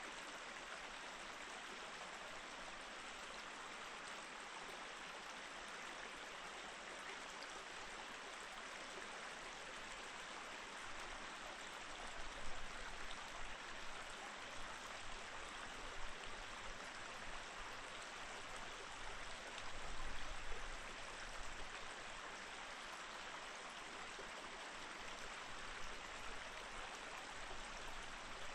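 Snowmelt mountain stream running steadily over rocks, an even rushing and babbling of water, with a few brief low rumbles from about halfway on.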